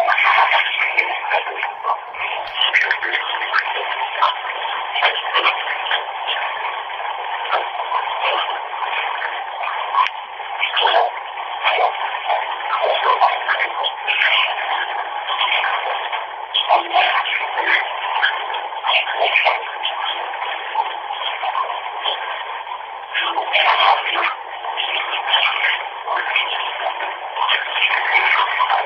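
Bath tap running, a steady rushing hiss of water with an irregular flicker, heard through a phone's narrow, tinny audio.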